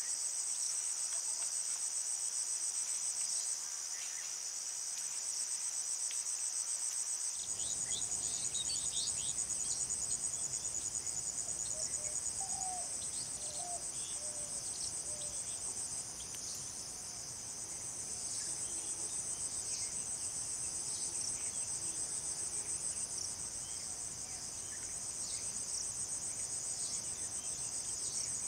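Steady high-pitched chorus of insects trilling with a fast, even pulse, with a few faint short chirps about halfway through.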